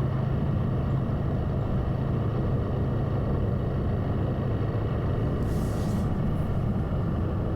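Motorcycle engine running steadily while riding, with a brief hiss about five and a half seconds in.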